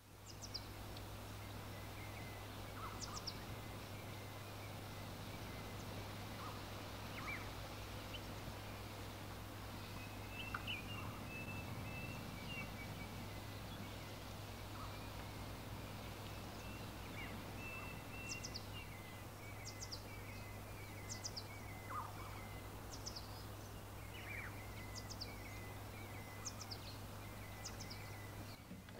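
Outdoor ambience with several small birds chirping and trilling on and off, over a faint steady low hum.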